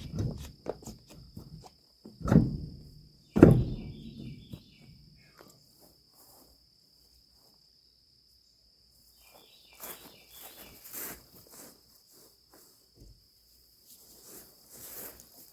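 Two heavy thumps about a second apart early on, then scattered light clicks and rustles of handling. A steady high insect trill runs underneath.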